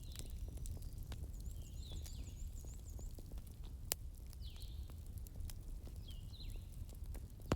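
Bonfire crackling over a steady low rumble, with frequent small snaps and two sharp pops, about four seconds in and at the end. High, repeated chirps of birds sound in the background.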